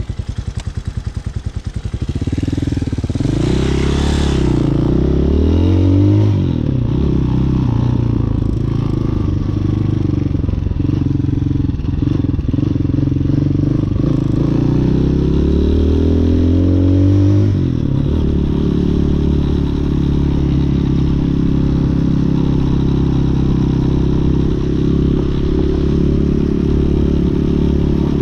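Hawk 250 motorcycle engine, heard from on the bike, pulling away from low revs and accelerating through the gears, its pitch rising and dropping back at each shift. About two-thirds of the way through it settles into a steady cruise.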